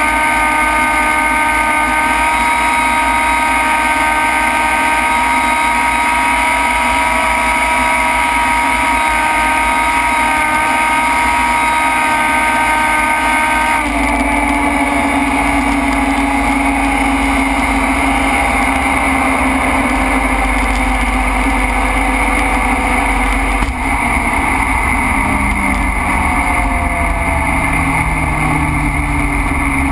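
Turbocharged Honda CRX land-speed car's four-cylinder engine, heard loud from inside the cabin, held at about 9300 rpm near 250 mph with steady engine tones. About fourteen seconds in the sound changes abruptly as the turbocharger fails and the engine carries on without boost. In the last several seconds the engine pitch falls steadily.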